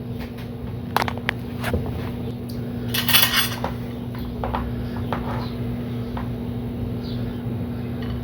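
Tableware handling as a meal begins: a few sharp clicks and knocks of utensils on a plate, a short rustle about three seconds in, then scattered lighter taps, over a steady low hum.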